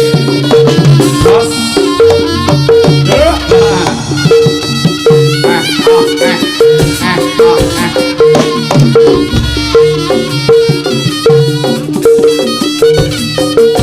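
Live jaranan gamelan music for a horse dance: a metallophone figure repeats about twice a second over hand-drum strokes, with a high wavering melody line on top.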